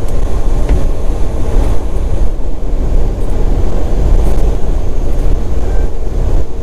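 Semi truck driving at road speed: a steady low rumble of engine and road noise inside the cab.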